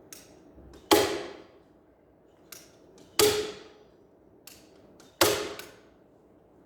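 Sharp tool strikes on a sofa frame during upholstery work: three loud cracks about two seconds apart, each with a brief ringing tail and each after a lighter click.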